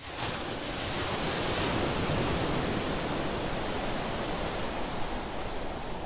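Steady rushing wash of ocean surf, swelling a little over the first couple of seconds.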